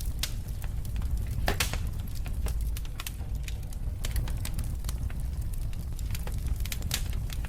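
Wood fire burning in a fireplace: a steady low rumble of the flames with irregular sharp crackles and pops, the loudest about a second and a half in and near the end.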